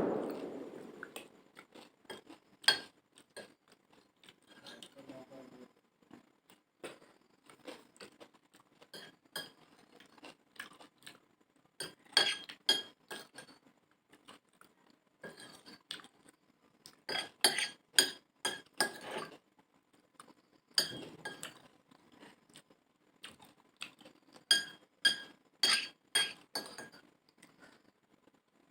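Spoon clinking and scraping against a plate of chotpoti as it is eaten, in bursts of quick ringing taps with short pauses between them.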